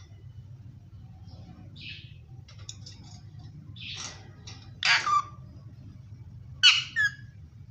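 Indian ringneck parakeet giving short, sharp calls, spaced out, with the loudest coming as a quick double call about halfway through and another near the end.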